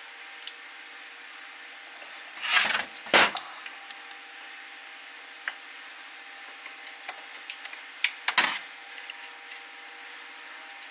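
Hand tools clicking and scraping on a chainsaw engine as its cylinder nuts are worked loose, with two louder scrapes, one a couple of seconds in and one near the end, over a steady faint hum.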